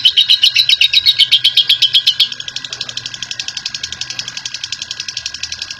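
Lovebird giving its long, rapid chattering trill ('ngekek'), about ten sharp high notes a second. The loud trill drops sharply in level a little over two seconds in and carries on more quietly.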